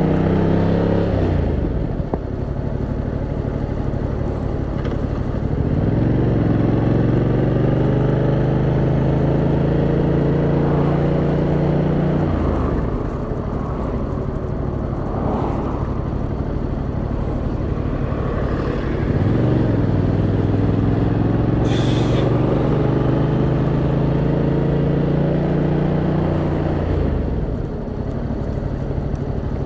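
Yamaha MT-07's 689cc parallel-twin engine riding in city traffic: it eases off and slows several times, then picks up again and holds a steady pitch while cruising. A brief hiss sounds about two-thirds of the way through.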